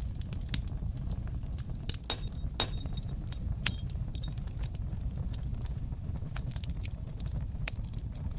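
Fire crackling in a fireplace: a steady low rumble of flames with scattered sharp pops and snaps, the loudest about two to four seconds in.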